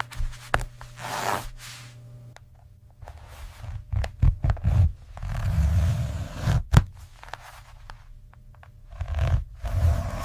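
Scraping and rustling noises broken by sharp knocks and low thuds, at irregular intervals.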